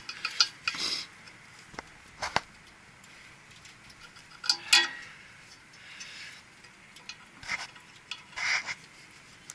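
Ratchet service wrench clicking in several short runs with pauses between, as the fasteners holding a new blower motor are tightened, with a few metal clinks.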